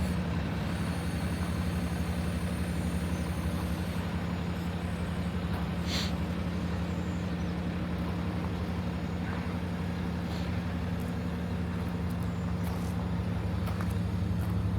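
Kenworth T370's PACCAR PX-9 inline-six diesel idling steadily, with a brief hiss about six seconds in.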